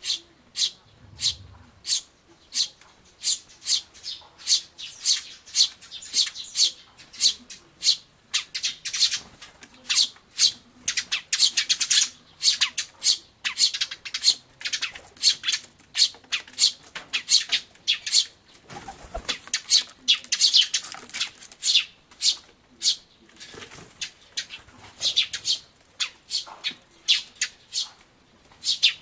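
Eurasian tree sparrows chirping: a rapid, unbroken string of short, high chirps, several a second. A brief low thump comes about nineteen seconds in.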